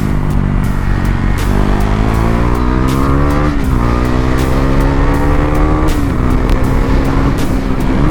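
KTM Duke 390's single-cylinder engine accelerating hard through the gears, its pitch climbing then dropping sharply at each upshift: about 3.5 s in, about 6 s in and again near the end. Wind buffets the microphone throughout.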